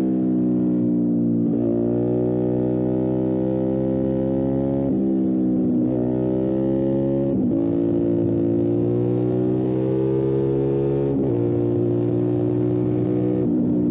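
Motorcycle engine pulling hard along a winding road, its pitch climbing steadily and then breaking off several times as the rider shifts gears or rolls off and back on the throttle.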